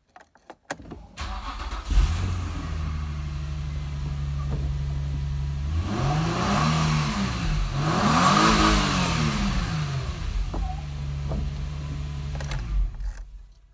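Infiniti G35's V6 engine cranking and starting about a second in, then idling. It is revved twice in the middle, each rev rising and falling in pitch, before it settles back to idle.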